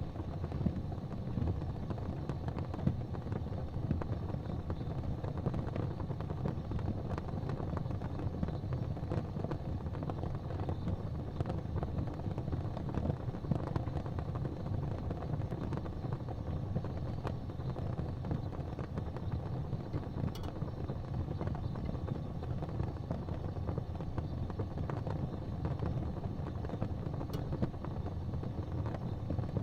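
Fireplace fire burning: a steady low rumble with scattered faint crackles and pops.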